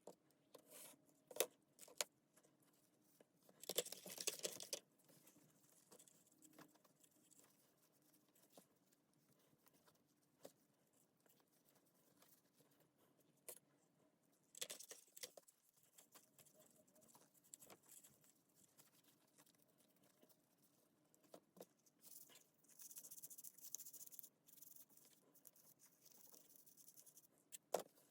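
Faint, scattered clicks and taps, with a few short scraping or rustling bursts, from small parts and hand tools being handled during bench work on a cordless drill; long quiet stretches lie between them.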